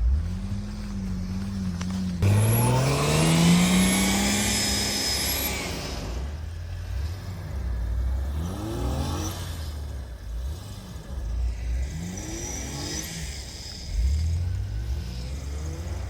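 A 4x4's engine revving in repeated bursts. The loudest is a long rising rev about two seconds in, and shorter revs follow near the middle and toward the end.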